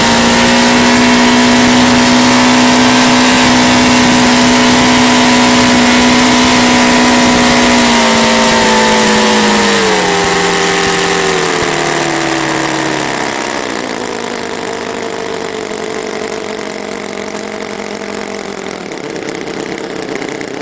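TechnoPower 9C nine-cylinder four-stroke glow-fuel model radial engine with propeller, running steadily at high speed. About eight seconds in it slows down in steps over several seconds. It then settles into a quieter, lower-pitched run near idle.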